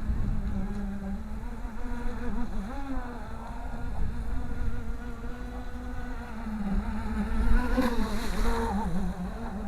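Radio-controlled model boat's motor buzzing, its pitch wavering up and down with the throttle, with a brief louder hiss about eight seconds in.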